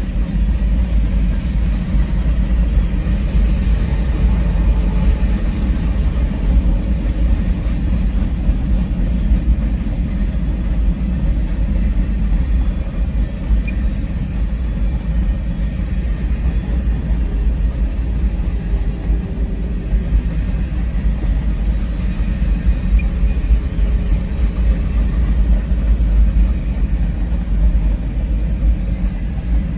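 Long freight train of covered hopper cars rolling past, a steady low rumble.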